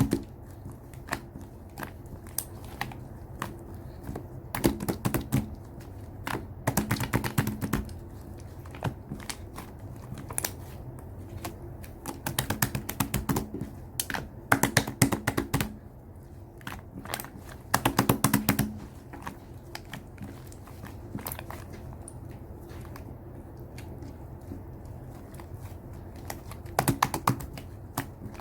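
Slime being squeezed and kneaded, giving clusters of quick clicking and popping sounds every few seconds, with single clicks in between, over a steady low hum.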